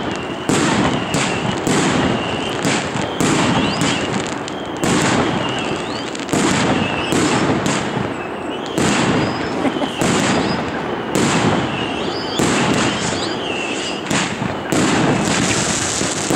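A 121-shot firework battery firing shot after shot, a sharp report roughly every second, with short high whistles among the shots.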